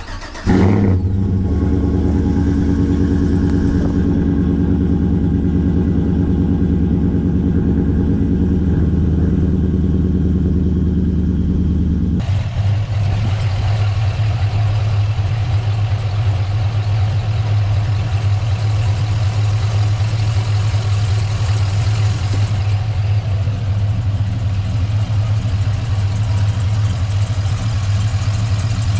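Rebuilt 5.3 L LS V8 in a GMC Sierra, with long-tube headers and a Flowmaster dual-tip exhaust, catching right after cranking and then running at a steady idle. The exhaust is fully hooked up. About twelve seconds in, the sound changes abruptly and then stays steady.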